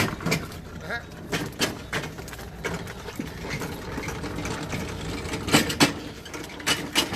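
Irregular knocks and clatter, loudest a little past halfway and again near the end, over a low steady hum.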